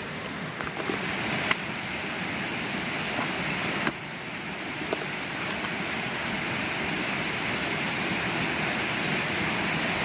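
A steady rushing noise, slowly growing a little louder, with two sharp knocks, one about a second and a half in and one about four seconds in.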